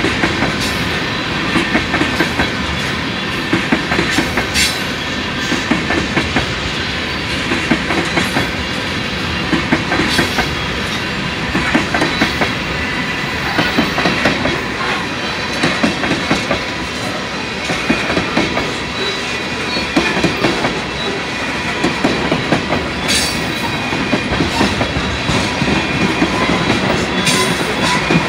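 A string of empty crude-oil tank cars on a Canadian Pacific freight train rolling past, their wheels clacking over the track in repeated groups every second or two as each car's wheel sets go by, over a steady rumble of running gear.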